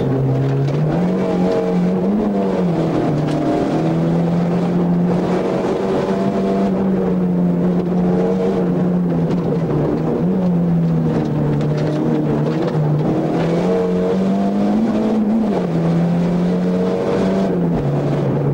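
Small car's engine heard from inside the cabin, running hard at high revs during a slalom run. Its pitch holds mostly steady and dips and climbs back several times as the throttle is lifted and reapplied.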